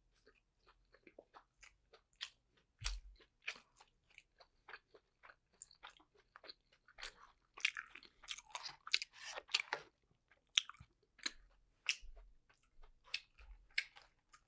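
A person chewing dumplings close to the microphone: a steady run of quick wet mouth clicks and soft crunches, busiest in the middle.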